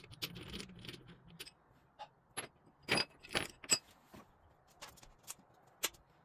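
Metal tools and small engine parts clinking and tapping during motorcycle engine disassembly: scattered sharp clicks and knocks, a few of them ringing briefly with a metallic tone about three seconds in.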